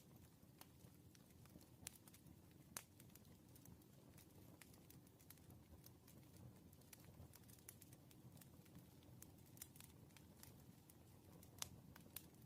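Wood fire burning, with irregular crackles and sharp pops over a low, steady rumble.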